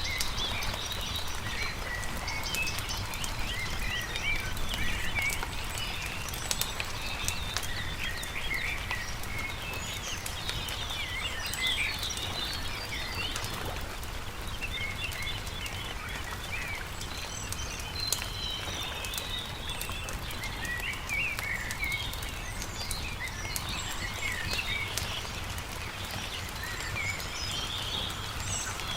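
Small birds chirping and twittering in many short calls, over the scattered sharp pops and crackles of a wood campfire and a steady low background noise.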